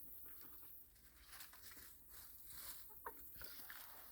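Chickens pecking at watermelon rind, with faint scattered crunchy pecks and a single soft cluck about three seconds in.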